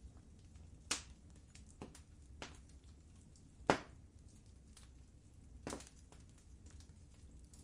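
Wood fire in a fireplace crackling, with a few sharp, irregularly spaced pops over a low steady rumble; the loudest pop comes about halfway through.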